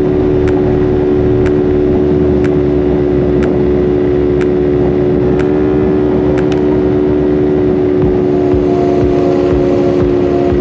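Motorcycle engine running at a steady speed, with no revving. A sharp tick sounds about once a second and stops about six and a half seconds in.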